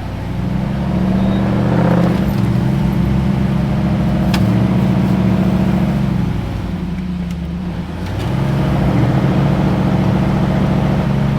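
Recovery vehicle's engine held at raised revs under load, pulling a Jeep that is bogged down in the riverbed; it eases off about six and a half seconds in, then builds again at about eight seconds.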